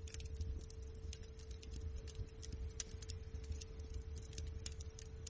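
Campfire crackling and popping in many irregular sharp snaps over a low rumble of burning, with a faint steady tone underneath.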